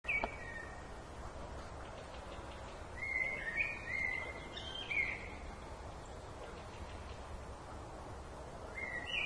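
Birds calling with short whistled notes over a steady background hiss. There is one call at the start, a run of four or five calls between about three and five seconds in, and another call near the end.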